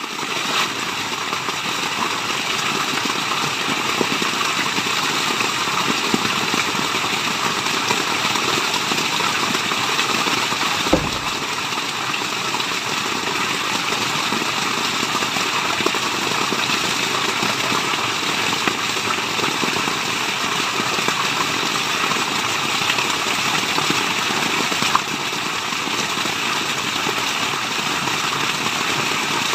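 Steady rushing water of a waterfall, an even hiss with a few faint ticks, fading in at the very start.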